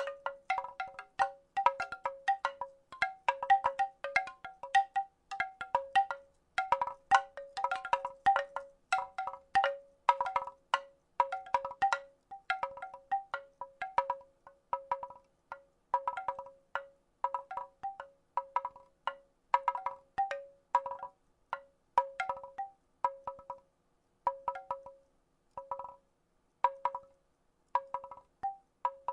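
Wooden rattle shaken in irregular clusters of clacks, each clack ringing briefly at a few fixed pitches, like small wooden chimes. The clusters come thick and fast at first and grow sparser in the second half.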